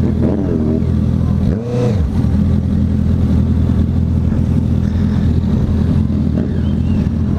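Honda CB650F's inline-four engine running at a steady pitch, with a brief dip in pitch and level about a second and a half in.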